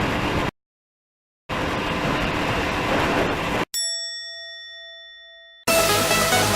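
Two stretches of steady rushing noise that cut in and out with dead silence between them, then a single bell-like ding about four seconds in that rings and fades over roughly two seconds. Electronic music starts near the end.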